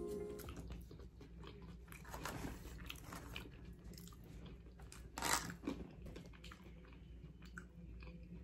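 Close mouth sounds of a person eating a forkful of burrito: chewing with scattered wet smacks and clicks, and a louder noise about five seconds in.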